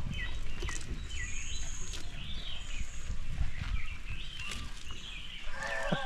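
Small birds chirping in short gliding calls, with a couple of brief high thin trills in the first half, over a low rumble.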